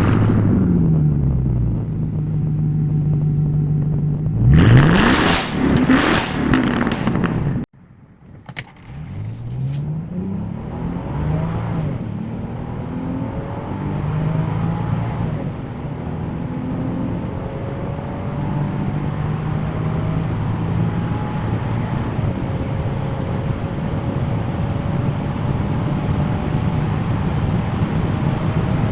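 BMW 6 Series engine and exhaust. The revs drop to a steady idle, then there is a sharp loud rev about five seconds in. After an abrupt cut, a second car blips its throttle and then runs on under sustained load, its engine pitch gliding up slowly.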